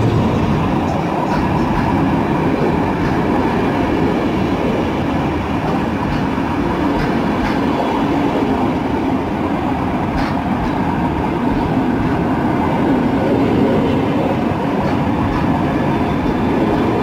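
Passenger coaches of a PKP Intercity train, 2nd-class TLK cars, rolling slowly past along the platform. Their wheels make a steady rumble on the rails, with a few faint clicks over the rail joints.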